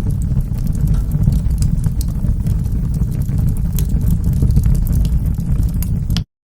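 Wood fire burning in a fireplace: a steady low rumble of flames with frequent sharp crackles and pops. The sound cuts off suddenly to silence just before the end.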